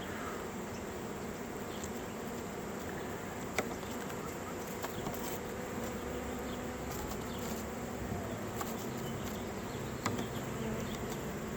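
Honeybees buzzing steadily, a leftover swarm still flying about disoriented after most of the cluster was taken. Two faint clicks, one a few seconds in and one near the end.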